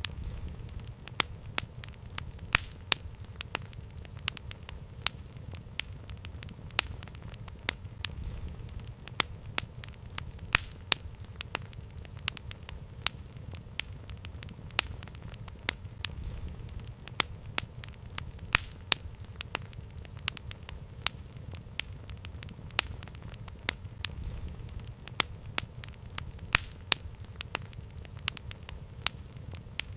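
Campfire burning: wood crackling with sharp, irregular pops, about two or three a second, over a low steady rumble.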